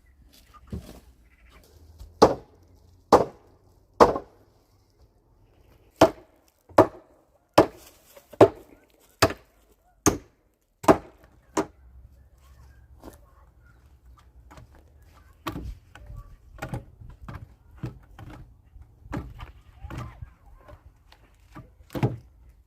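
A blade chopping into wood with sharp strikes about one a second, about a dozen in a row, followed by lighter, irregular knocks.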